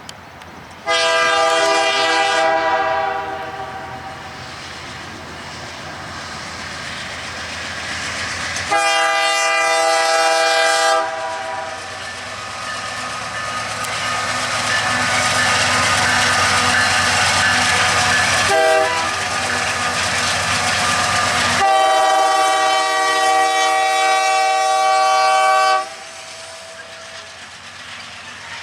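Freight locomotive's air horn sounding the grade-crossing signal: two long blasts, a short one, then a long one. Between the blasts the train's engine and wheel noise grows louder as it comes close.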